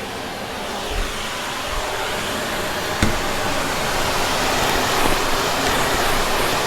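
Vacuum cleaner running steadily, sucking up crunchy debris, with a single knock about three seconds in.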